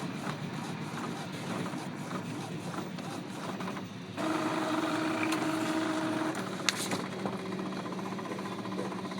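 Epson L-series inkjet printer mechanism: a motor whirs steadily for about two seconds from a little under halfway in, then a sharp click. A steady low hum of background noise runs underneath.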